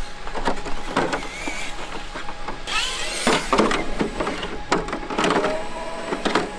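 Plastic knocks, clicks and rattles as the body shell is fitted onto a Traxxas X-Maxx RC truck chassis, with a brief scraping rush about three seconds in.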